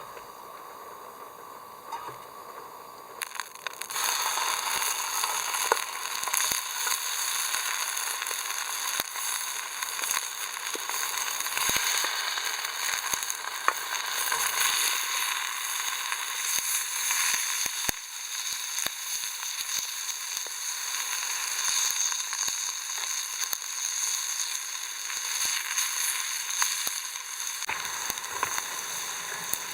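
Food frying in hot oil in a pan: a steady sizzle with many small spitting pops, which jumps up about four seconds in.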